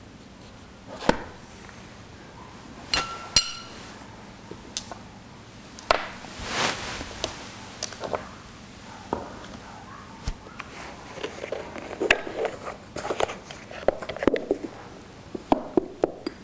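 Scattered light knocks, clicks and a brief ringing clink, with a rustle about six and a half seconds in and a run of small taps and clicks near the end: brush-painting tools, dishes and paper being handled on a table.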